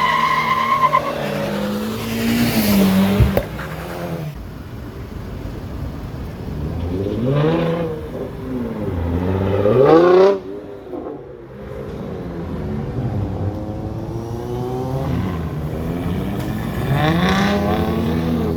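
A car engine revving hard several times, its pitch climbing and dropping back, with tyre squeal dying away in the first second and a single sharp crack about three seconds in.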